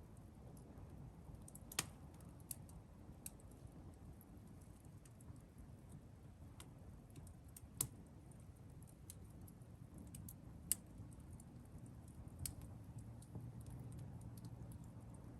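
Wood campfire crackling: scattered sharp pops and snaps, a few of them louder, over a low steady rumble.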